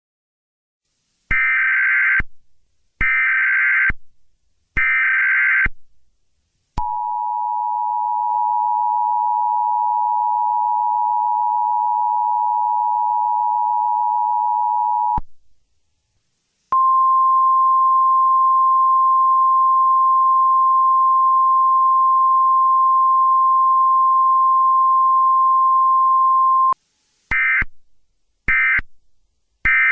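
Emergency Alert System tones. Three one-second bursts of SAME header data come first, then the two-tone EAS attention signal held steady for about eight seconds. After a short gap a single steady 1050 Hz warning tone runs about ten seconds, and near the end come three shorter end-of-message data bursts.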